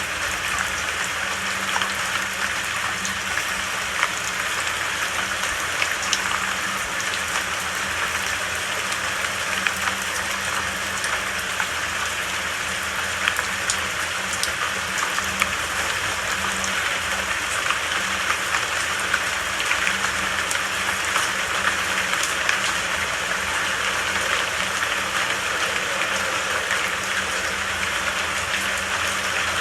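Steady rain falling, an even hiss dotted with scattered sharper taps of individual drops.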